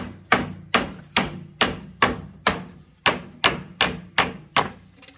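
About a dozen evenly paced hammer blows, roughly two a second, each sharp with a short ringing decay: hammering open a nailed-shut crate.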